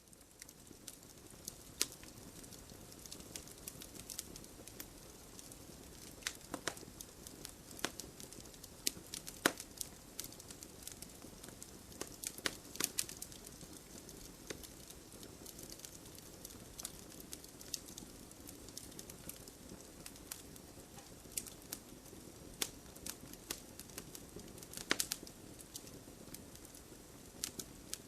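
Fire burning in a fireplace, crackling with a steady low hiss and many irregular sharp pops and snaps.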